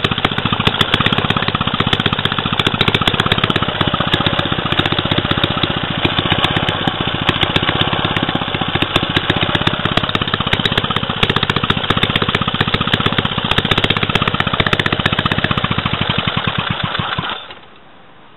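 Small Clinton 900 3 hp single-cylinder stationary engine running steadily with rapid, even firing. The sound cuts off suddenly about a second before the end.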